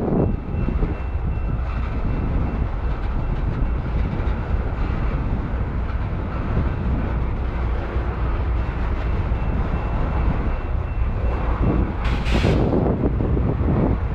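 Freight train of loaded tank cars rolling past close by: a steady rumble of steel wheels on the rails. A short burst of hiss about twelve seconds in.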